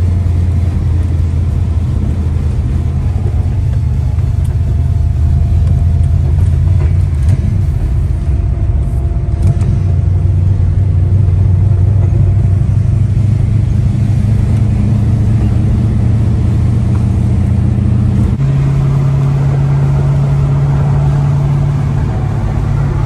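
Holden V8 car engine running steadily on the road at cruising speed, a loud low drone. The engine note steps up in pitch about eighteen seconds in and holds there.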